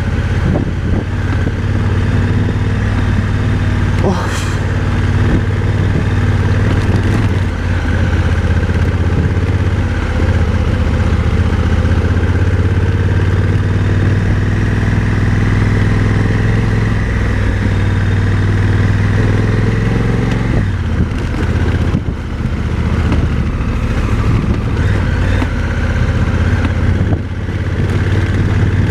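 Motorcycle engine running steadily at low revs while riding a dirt road. The engine note dips and shifts briefly about 20 seconds in.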